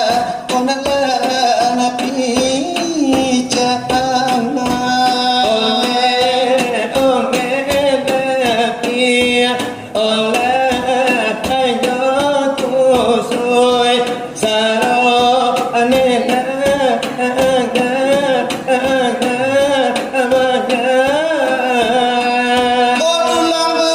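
Selawat dulang: voices singing a long, wavering devotional melody over a fast, steady rhythm beaten by hand on a brass tray (dulang).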